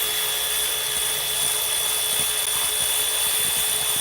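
Power tool running at a steady speed with a high whine and hiss, worked against the fan clutch to try to free it; it cuts off suddenly at the end.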